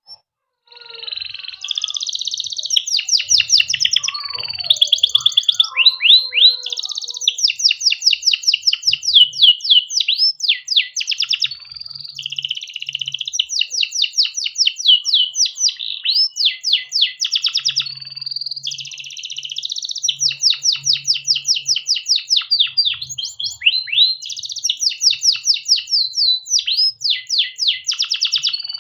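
Domestic canary singing a long, almost unbroken song of fast trills and rolls, one rapid phrase running straight into the next. It starts about a second in.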